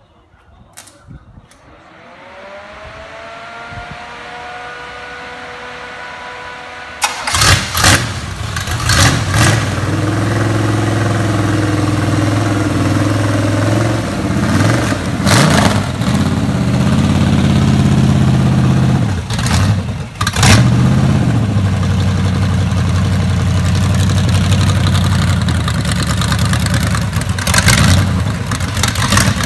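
A whine rises in pitch and levels off for a few seconds. Then, about seven seconds in, a freshly rebuilt 350 small-block Chevy V8 with an Edelbrock carburettor and a GM 327/365-hp-spec cam fires up on its first start. It runs loudly at a fast idle and is revved in short blips several times.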